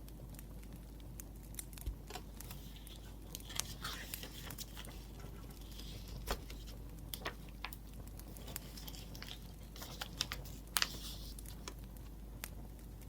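Wood fire crackling with scattered sharp pops, the loudest about eleven seconds in, over soft scratching of a pen writing on paper in short strokes.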